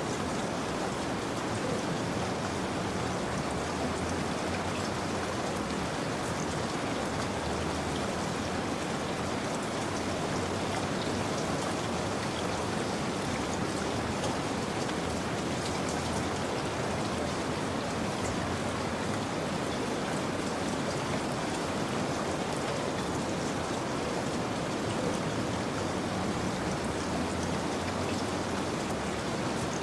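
Steady rain falling, a continuous even hiss of drops with scattered small patters, played as a rain soundscape for sleep.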